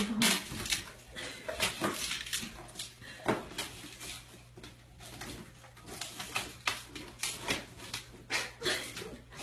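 A pit bull eating raw beef: irregular wet chewing, tearing and crunching sounds, some sharp and loud, with short pauses between bites.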